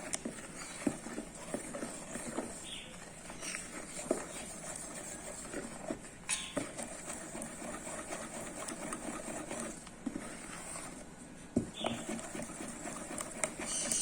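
Scattered light taps and knocks of utensils against a blender jug and a cake pan as corn cake batter is poured and scraped into the pan.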